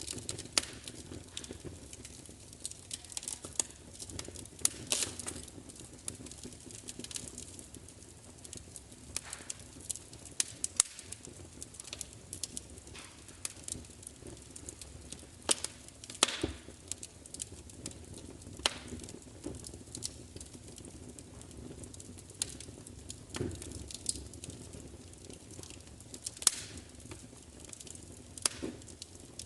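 Fire crackling, with irregular sharp pops and snaps over a low, steady hiss.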